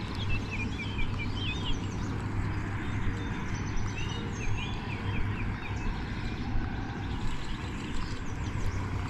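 Songbirds chirping in short, quick phrases twice, over a steady low hum and a wash of outdoor noise.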